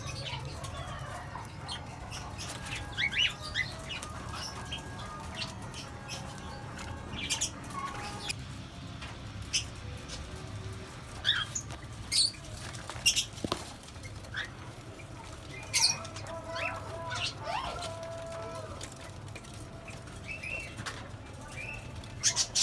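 Small pet parrots (cockatiels, budgerigars and lovebirds) giving scattered short chirps and calls, with bursts of wing flapping.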